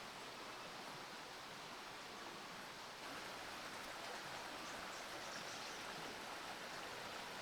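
Faint, steady hiss with no distinct events, a little louder about three seconds in.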